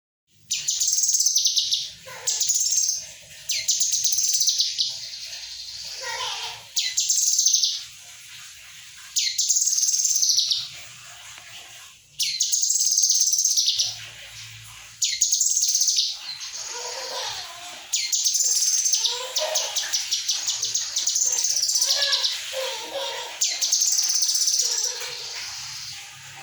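Kinoy bird song played as a lure recording to coax a silent bird into singing: high, rapid song phrases of a second or two each, repeated with short pauses, becoming denser and fuller with lower notes in the second half.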